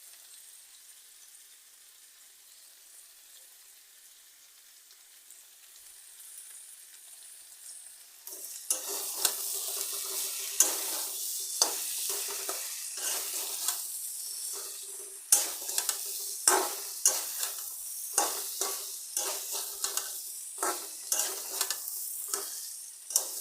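Mixed vegetables (potatoes, aubergine and okra) frying in oil in a pan, being sautéed over a high flame. A faint sizzle for the first eight seconds or so turns into loud sizzling with many sharp scrapes and clacks of a spatula stirring against the pan.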